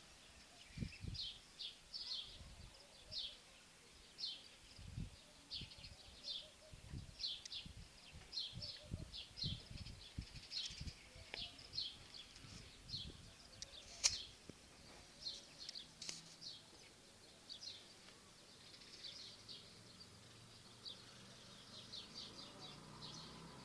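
Small birds chirping: many short, high chirps a second or less apart throughout. Low dull thumps come through the first half, and a single sharp click about 14 seconds in is the loudest moment.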